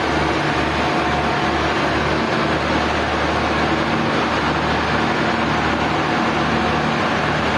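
Sawmill machinery running steadily: a constant low hum under a loud, even rush of mechanical noise, with the hum pulsing slightly in the first couple of seconds.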